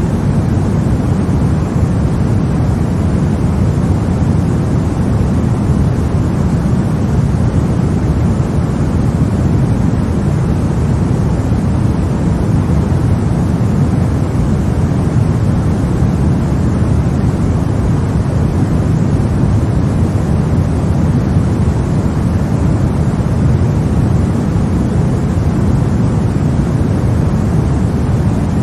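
Steady baby-sleep white noise: an even, unbroken hiss weighted toward the low end, like a deep rushing rumble, with no changes in level.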